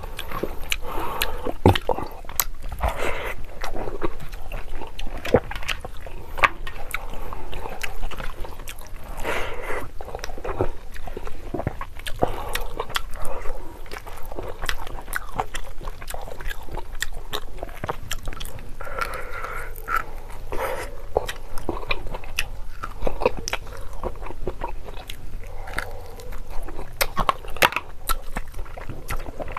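Close-miked chewing of rice and mutton curry eaten by hand: many quick wet mouth clicks and smacks, irregular and steady throughout.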